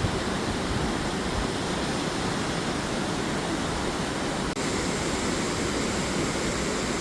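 Steady rush of water pouring over a waterfall, with a brief dropout about four and a half seconds in.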